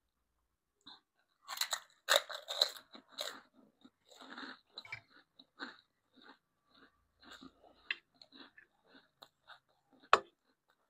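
Close-miked eating sounds: chewing and crunching food in irregular bites, loudest in a cluster of crunches about two seconds in, with a sharp click near the end.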